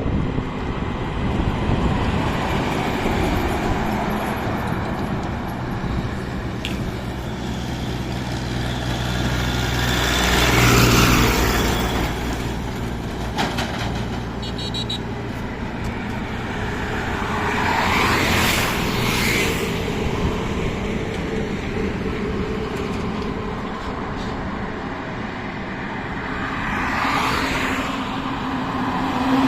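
A truck's engine running steadily at highway speed with road noise. Other vehicles rush past, swelling up three times, about 11, 18 and 27 seconds in.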